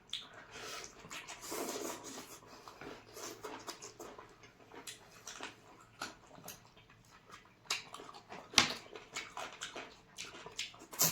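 People eating chicken curry and rice: chewing and lip-smacking, with many short, irregular wet clicks and a couple of louder smacks near the end.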